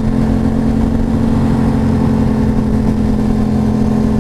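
Motorcycle engine running at a steady speed while riding, one even pitch held throughout, over a low rumble of wind and road noise.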